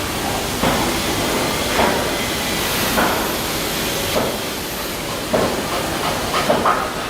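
Shipbuilding work noise: a steady, loud hiss with a short knock about every second.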